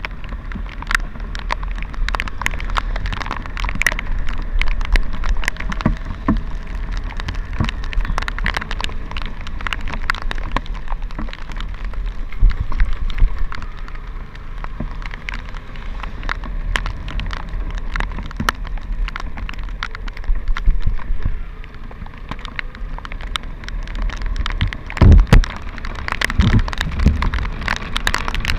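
Rain spattering on the camera during a motorcycle ride: a steady hiss of rain and wind with many sharp drop clicks over a low rumble. A few loud low thumps come near the end.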